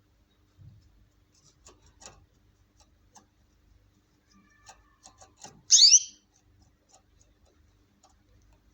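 Male goldfinch × canary hybrid giving one short, loud call of quick falling notes about six seconds in, among faint scattered clicks and taps.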